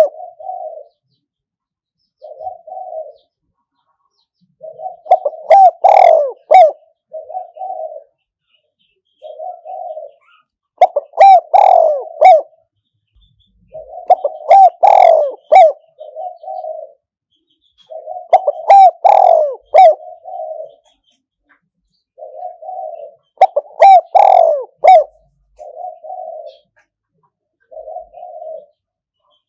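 Spotted dove cooing: loud multi-note cooing phrases every four to five seconds, with short single coos in between. This is a decoy bird's call, used to lure wild spotted doves.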